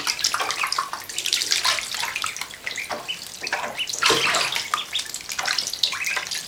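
Water splashing and sloshing in quick, irregular little strokes as a group of week-old runner ducklings swim and dip their heads in shallow water.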